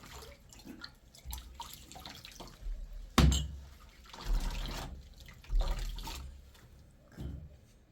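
Water splashing and dripping, with scattered knocks and clatters; the loudest is a sharp knock about three seconds in.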